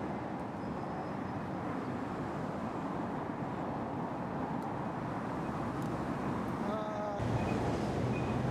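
Steady outdoor background noise with a distant vehicle-like rumble. A short wavering call is heard a little before the end, and a low steady hum comes in just after it.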